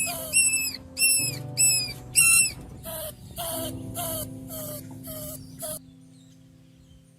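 An animal's short, high-pitched squeaking calls, repeated about twice a second over a low steady hum, stopping about six seconds in.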